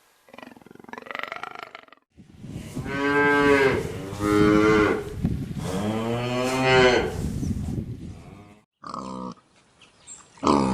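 An animal giving two long, drawn-out calls, each rising and then falling in pitch, about two seconds in, followed near the end by a couple of short calls.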